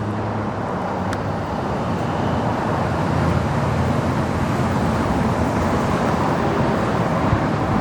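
Steady freeway traffic noise from passing vehicles, with gusting wind rumbling on the microphone.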